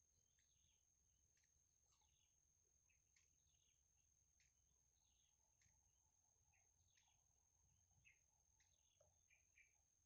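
Very faint bird chirps and short calls, scattered irregularly, over a steady thin high-pitched tone, with a few slightly louder chirps near the end.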